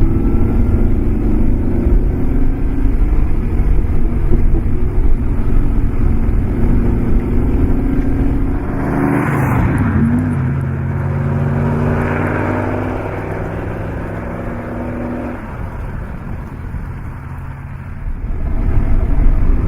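Maserati Mexico's V8 engine running under load. Its pitch drops sharply about nine and a half seconds in, as at a gear change, then climbs again. The engine eases off and quietens for a few seconds, then pulls harder near the end.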